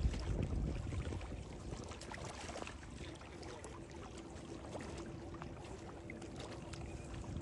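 Wind rumbling on the microphone aboard a small boat, easing after the first second, then a faint steady hum with scattered small clicks and knocks.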